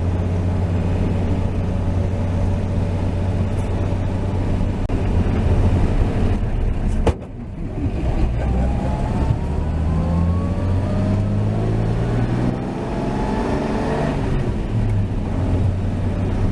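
1949 Chevrolet 3100 pickup's 235 inline-six with dual exhaust, running under way. Its steady drone cuts out briefly with a click about seven seconds in, then climbs in pitch as the truck accelerates.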